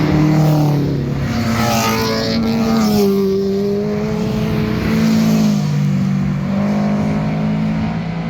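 Performance car engines and exhausts revving and passing on a mountain road. The pitch climbs sharply about two seconds in as a car accelerates, then holds and drops, with a second engine note overlapping later on.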